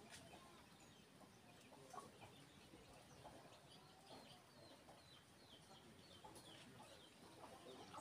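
Faint chirping and calling of birds: a run of short, falling high notes with lower calls mixed in.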